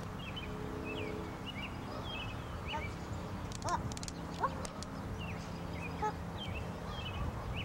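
Small birds chirping in the background: many short rising-and-falling chirps, scattered irregularly, over a steady low hum.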